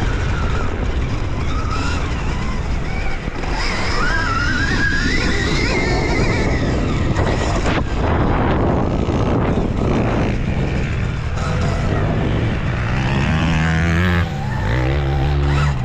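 Dirt bike riding on a motocross track, with heavy wind noise on a helmet camera and the motor's pitch rising and falling. Near the end it settles into a steady low running tone.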